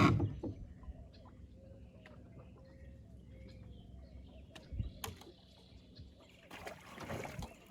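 Birds calling in the background, short faint chirps throughout, with a sharp knock right at the start and a softer thump about five seconds in.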